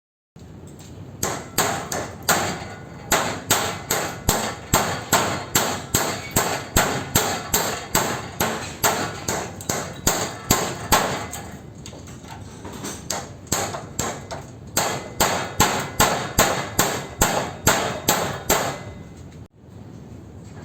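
Hammer striking a wood chisel set against an air-conditioner condenser's galvanized steel stiffener strip, parting the steel from the copper tube loops. Rapid, sharp metallic clangs come about two to three a second, with a short lull near the middle, then stop abruptly near the end.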